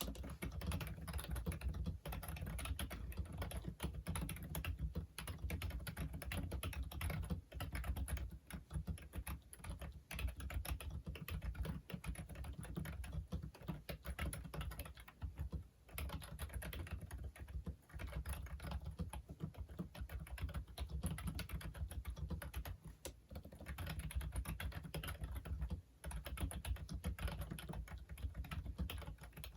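Continuous fast typing on a Logitech Wave Keys wireless ergonomic keyboard: a dense run of key clicks, broken by a few brief pauses.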